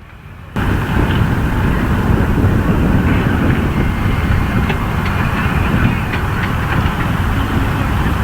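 Steady, low, rushing outdoor noise that cuts in abruptly about half a second in, with a few faint clicks over it.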